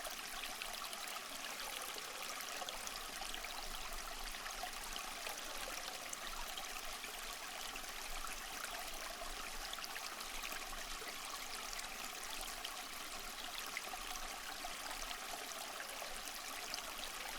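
Water trickling and splashing steadily into a fish tank, a constant flow sprinkled with small droplet ticks.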